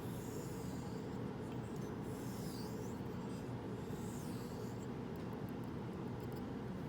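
Straight razor blade stroked across a whetstone in faint sliding scrapes, about one every two seconds, with a few light clicks near the end, over a steady low hum.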